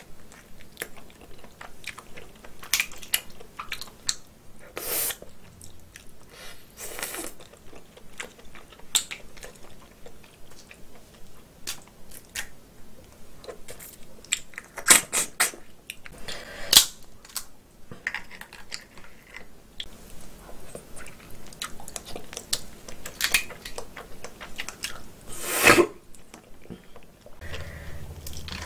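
Close-miked chewing of cooked snow crab leg meat: a steady run of wet chewing and biting sounds, about two a second, with a few sharper, louder clicks now and then.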